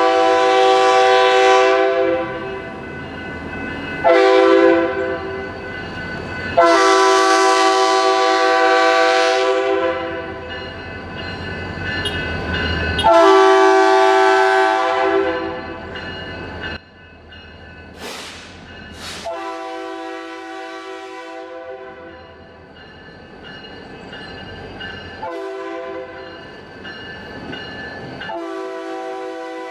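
Diesel freight locomotive's multi-chime air horn sounding a series of blasts: a long one, a short one, then two more long ones. After that the blasts are fainter and come again several times.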